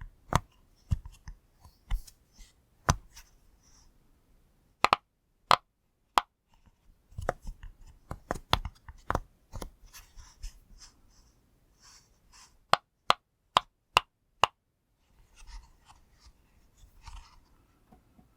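Fidget pop toy being pressed: sharp, irregular pops, sometimes in quick runs and sometimes singly, with softer tapping and rubbing from handling the toy between them.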